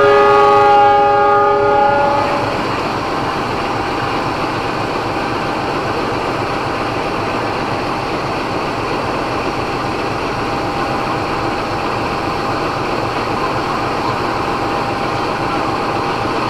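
Train horn sounding a chord of several tones for about two and a half seconds, then the steady rumble of train running.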